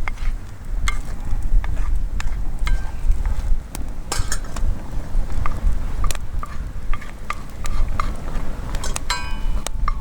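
A utensil stirring scrambled eggs in a Turk wrought-iron frying pan, with irregular sharp clinks and scrapes against the iron and a ringing clink near the end.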